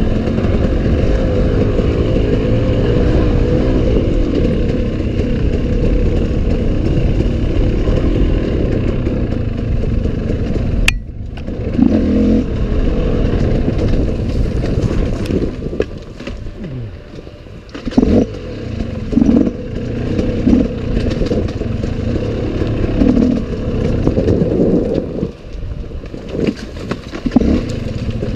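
Enduro dirt bike engine running steadily under load for about the first third. It then cuts back sharply and carries on in short bursts of throttle with quieter gaps between them, as the rider picks a way through rough forest track.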